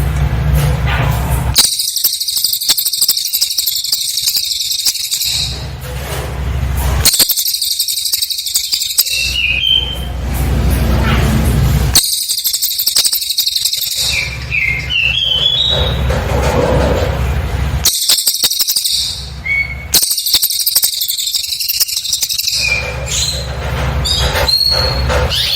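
Cililin bird singing in dense, very high-pitched rapid bursts of about two to four seconds, five of them at regular intervals. Between bursts come short descending chirps over a low background rumble.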